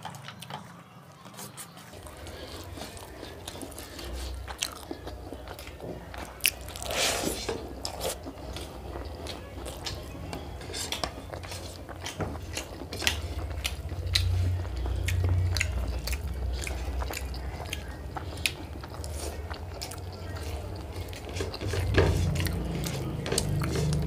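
Chewing and wet mouth sounds of people eating schezwan fried rice and chicken curry by hand, picked up close on a clip-on microphone, with many small clicks of fingers and rice against plates.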